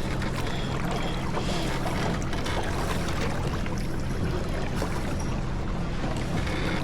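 Steady rush of water and wind aboard a J24 sailboat under way, with a constant low rumble and no distinct knocks or calls.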